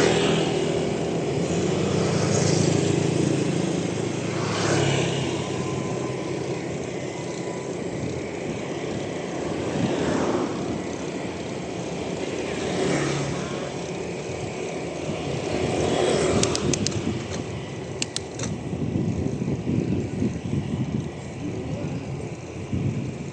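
Motor vehicles passing one after another on a road, each swelling and fading over a second or two, about six times, over a steady rush of wind and road noise from a moving bicycle. A few sharp, high metallic clicks come near the end.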